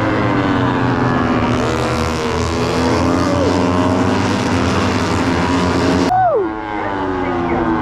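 Motorcycle engines running loud, their pitch rising and falling with the revs. About six seconds in the sound cuts abruptly, and then one engine's pitch drops sharply as it passes.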